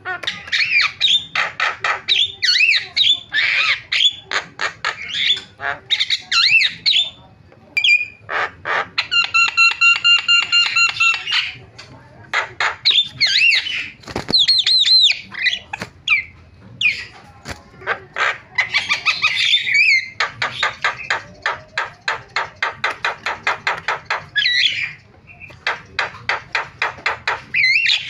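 Javan myna (jalak kebo) chattering without pause: rapid rattling clicks, harsh squawks and whistled phrases, typical of its imitative song. About nine seconds in it holds a buzzy whistled note for about two seconds.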